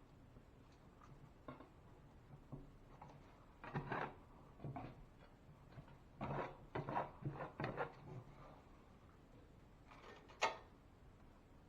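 Intermittent handling noises: short knocks, scrapes and rubs, bunched together in the middle, with one sharp click near the end.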